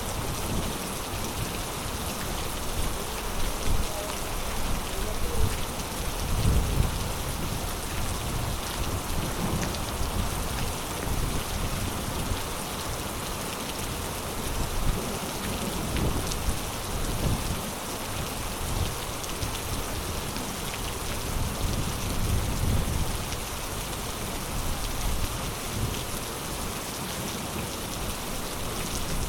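Heavy rain falling steadily in a thunderstorm, a dense even hiss, with low rumbles swelling up several times.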